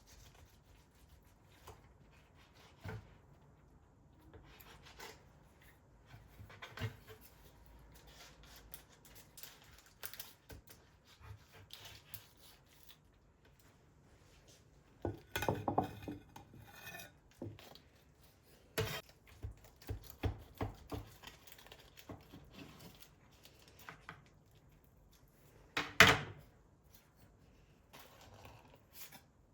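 Scattered knocks and clinks of objects being set down and handled, with a short burst of clatter about halfway through and one sharp, louder knock near the end.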